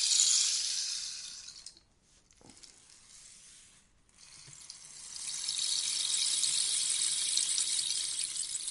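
Rainstick being turned, its pebbles trickling down inside with a rain-like rushing hiss. One cascade fades out in the first two seconds, and a second builds from about four seconds in and keeps flowing.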